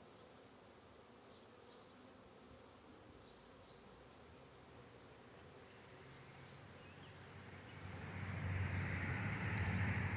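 Honey bees buzzing, a faint steady hum that swells much louder in the last couple of seconds.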